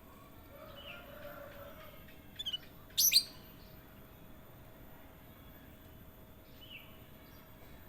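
Kutilang emas songbird calling: soft warbling notes, then a few quick sharp notes and one loud sharp call about three seconds in, with another soft call near the end.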